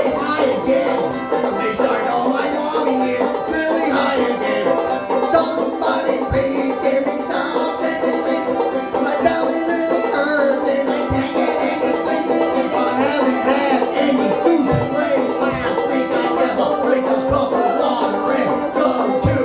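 A band playing a song, with pitched instruments sounding steadily throughout.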